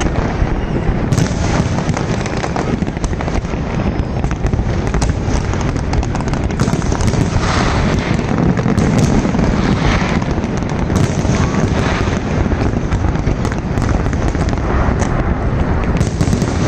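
Fireworks display: many overlapping bangs and crackles in a dense, unbroken barrage.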